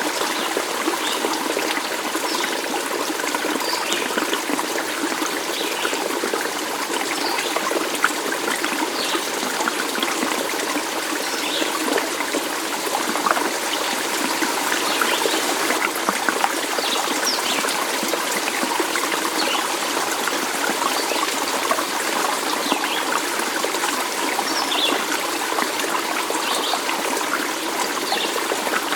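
A small stream trickling and splashing steadily, with faint short high sounds every second or two.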